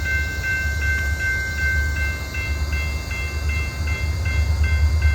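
DeQueen and Eastern EMD GP40-2 diesel locomotive, a 16-cylinder two-stroke, running with a steady low rumble. Over it is a high ringing tone that pulses about twice a second.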